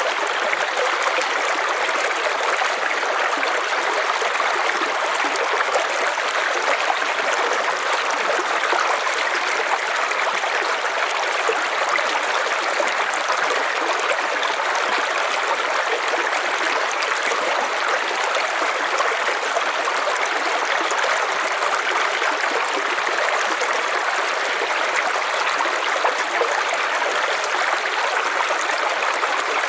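River water flowing steadily over stones, an even rushing and babbling with no breaks or changes.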